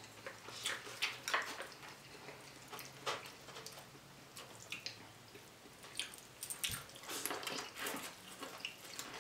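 Close-miked wet chewing and mouth sounds of someone eating a seafood boil: soft, irregular smacks and clicks. Near the end a bite into buttery corn on the cob.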